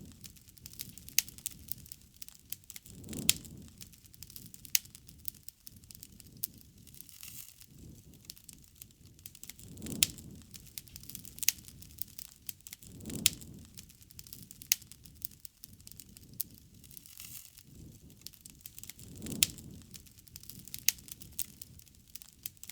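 Wood fire crackling, with sharp pops scattered irregularly throughout. A low swell rises and falls every few seconds underneath.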